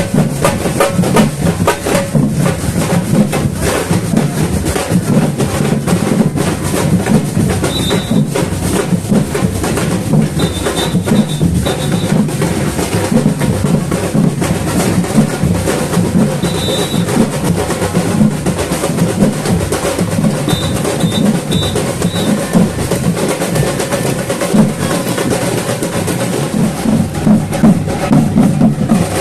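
Samba batucada drum ensemble playing a dense, steady rhythm of bass drums and snares. A few short, high tones sound in small groups over the drumming, about a third of the way in and again around the middle.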